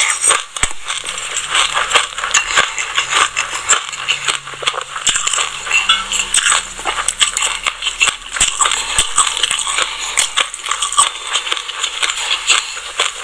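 Close-up chewing of a mouthful of raw black and white sesame seeds: a dense, fast crunchy crackle full of sharp clicks.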